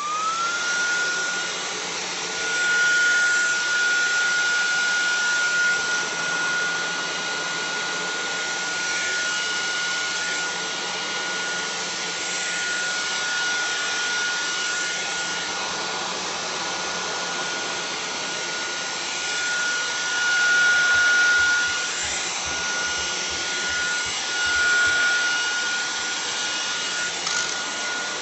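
KCLASO cordless stick vacuum running, a steady motor whine over a rush of air; the whine rises in pitch at the start and then holds, while the airflow swells louder and softer several times.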